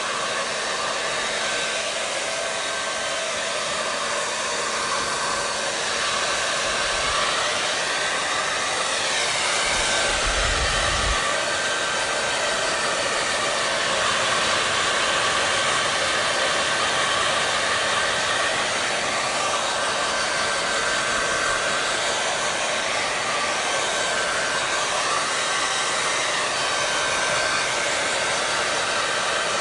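Hair dryer blowing steadily, a continuous rush of air with a motor whine that wavers slowly in pitch now and then.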